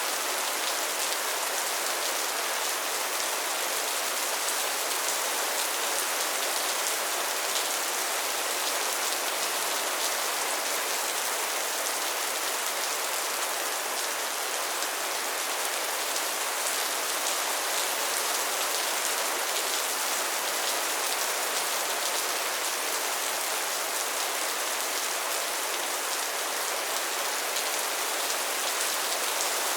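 Steady rain falling, an even hiss of many fine drops that does not change.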